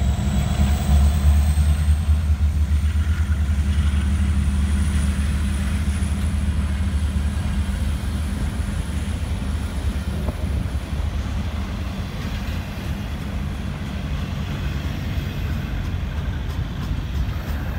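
Train passing on the rails, a steady low rumble that slowly gets quieter.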